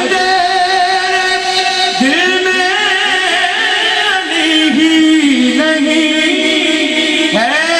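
Male voice singing a manqabat in long, drawn-out notes that waver and glide between pitches, with no words clearly spoken.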